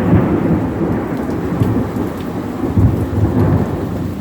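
Heavy rain pouring down in a thunderstorm: a dense wash of rain noise with an uneven low rumble and scattered sharp ticks of drops.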